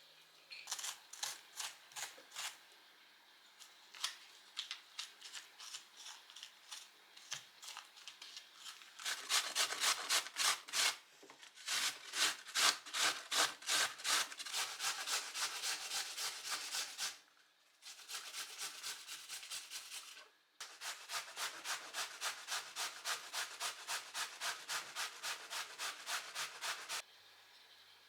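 Rhythmic back-and-forth scraping, about three strokes a second, in several runs with short pauses between them.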